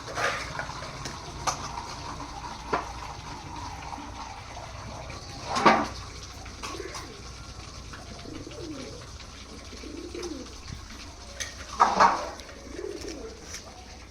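Pigeons cooing, a series of low, wavering coos through the second half. Three short, loud, noisy bursts stand out: one at the start, one about six seconds in and one about twelve seconds in.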